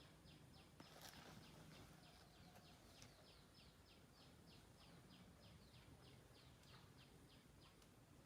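Faint, steady series of short chirps, each falling in pitch, about three a second, from a small bird calling, with a single click about a second in.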